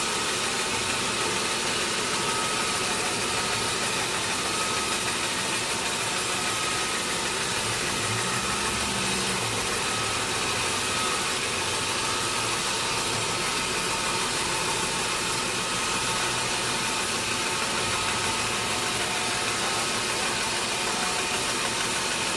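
Sawmill machinery running steadily, an even mechanical hum with a thin high whine that does not change.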